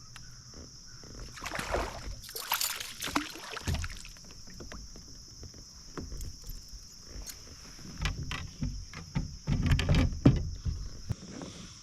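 Irregular splashing and knocking in and around a kayak as a just-caught largemouth bass is handled, with bursts about two seconds in and again near the end. A steady high insect drone sits underneath.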